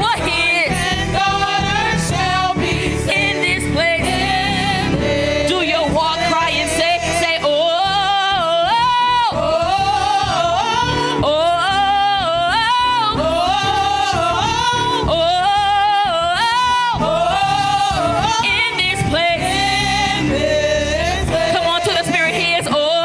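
A song: one voice singing a melody of long, wavering held notes over instrumental accompaniment.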